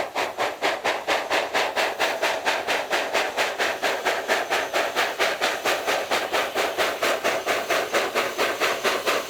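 Steam locomotive working at speed, its exhaust beating in quick, even chuffs, about five a second.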